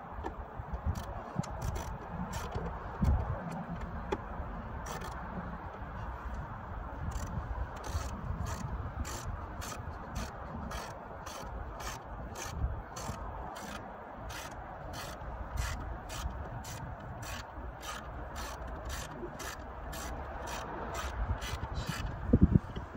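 Hand ratchet wrench clicking as it is worked, the clicks sparse at first and then settling to an even pace of about two a second, over steady rubbing and handling of tools on the engine.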